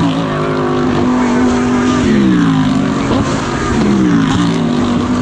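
GT3 race car engine heard onboard at racing speed, its note steady, then falling twice as revs drop, about two seconds in and again near four seconds.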